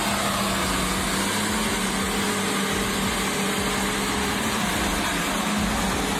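Heavy truck engine running steadily, a continuous drone with a held low hum.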